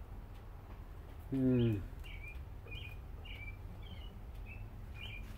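Small bird chirping repeatedly, short high chirps about twice a second, over steady outdoor background noise. About a second and a half in, a brief low voice sound, louder than the chirps, cuts in once.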